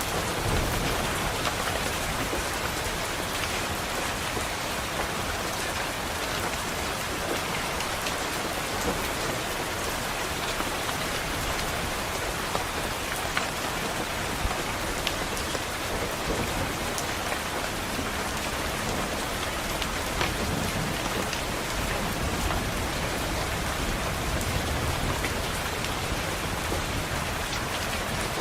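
Steady rain on a window glass: an even hiss with scattered sharp drop ticks, and a low rumble of thunder underneath.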